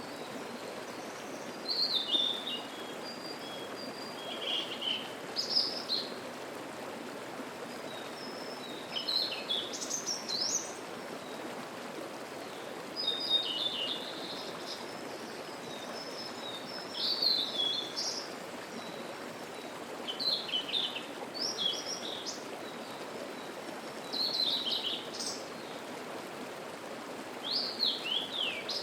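Steady babbling of a rocky mountain stream, with songbirds singing short, quick phrases every few seconds over it.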